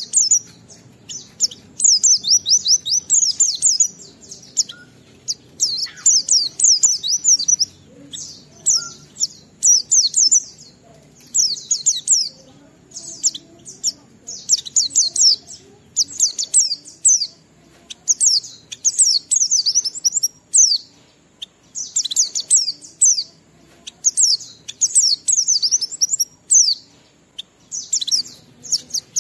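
A white-eye (pleci) singing in fast, high-pitched twittering phrases of a second or two each, repeated with short pauses. This is the long, continuous 'ngalas' song, in full voice.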